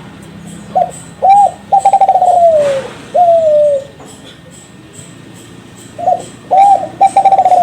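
Kelantan-strain spotted dove (derkuku) cooing its song phrase twice, about five seconds apart. Each phrase is a short note, a quick rising-and-falling note, a long rolled coo falling in pitch and a shorter falling coo at the end. This is the bird's contest song, used as a lure call to set other doves calling.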